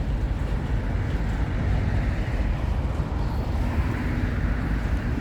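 Steady low vehicle rumble, with no distinct knocks or changes.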